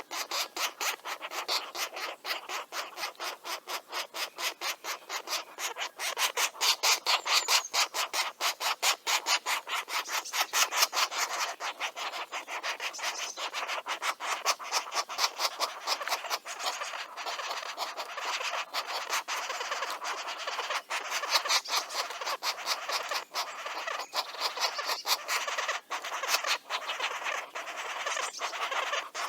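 Nestlings begging in the nest: a continuous run of rapid, raspy calls, about five a second.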